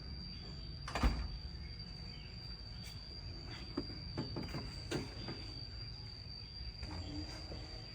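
A sharp knock about a second in, then a few lighter clicks and taps, over a steady high-pitched insect drone.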